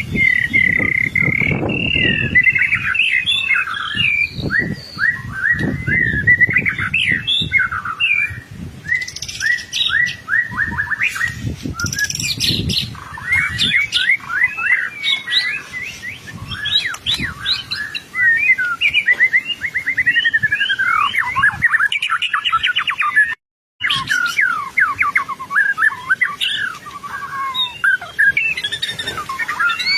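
White-rumped shama singing a long, continuous, fast-changing song of rapid whistles and trills, in full song. The sound cuts out for a moment about three-quarters of the way through, then the song carries on.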